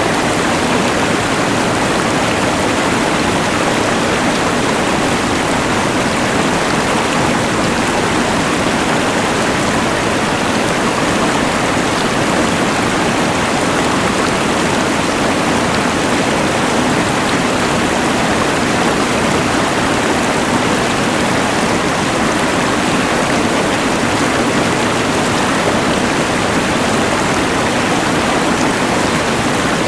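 Rushing mountain river combined with the hiss of a LectroFan white noise machine: an even, unbroken wash of water noise that holds steady throughout.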